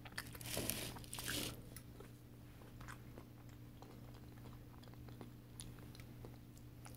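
A person chewing a mouthful of seafood boil, louder mouth sounds in the first second and a half, then faint chewing with small clicks.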